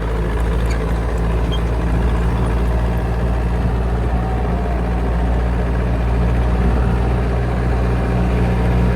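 Tractor diesel engine running steadily, a low, even hum.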